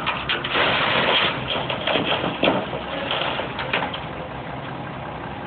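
Cat backhoe engine running under load while its bucket works a load of dirt. There are about four seconds of scraping and clattering soil and stones, then the engine runs on steadily.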